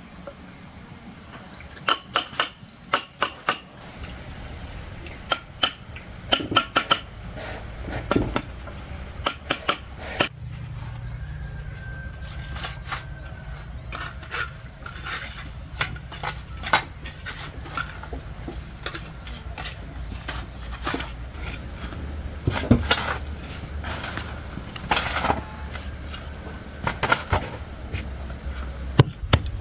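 Irregular sharp taps and knocks of hand building work, coming in small clusters with pauses between them, over a low steady rumble.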